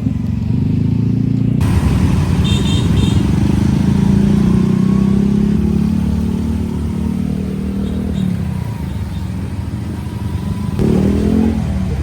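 Motor scooter engine running under way, with road and wind noise, heard from on the bike. A few short high beeps sound about two and a half seconds in.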